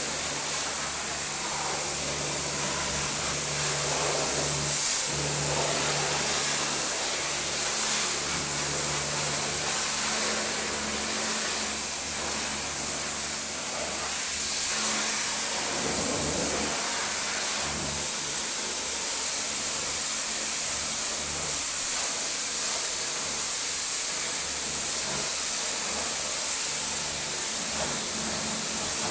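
High-pressure washer jet spraying water onto a car, a steady loud hiss over the washer's motor and pump humming low.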